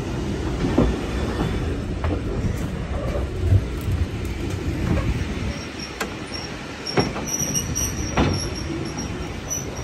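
Steam-hauled heritage passenger train running, heard from on board a coach: a steady low rumble with irregular sharp knocks from the wheels. A faint high wheel squeal comes in near the end.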